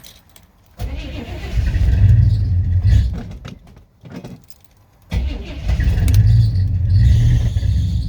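1984 GMC Jimmy K5's carbureted engine on a cold start without choke: it cranks and catches about a second in, runs for about two seconds, then dies. About five seconds in it is restarted and keeps running.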